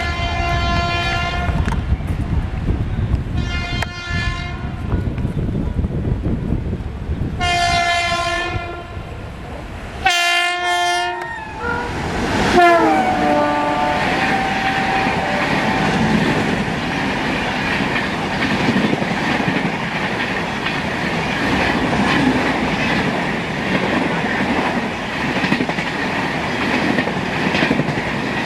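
Indian Railways WAP-7 electric locomotive horn sounding three blasts over the rumble of a running train, then another horn blast that drops in pitch as it passes. After that the train runs past with steady wheel rumble and clickety-clack over the rail joints.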